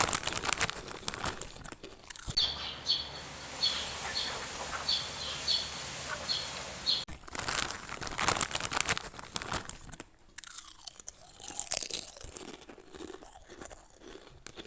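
Dense crunching and crackling, with a bird chirping in a series of short, evenly spaced chirps from about two to seven seconds in.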